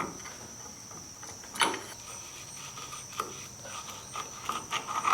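Metal-on-metal clanks and clicks of a pin spanner working the large wheel-hub nut of a Rolls-Royce Phantom III loose. There are two sharp clanks, about a second and a half apart, then a run of small clicks near the end, over a steady faint high whine.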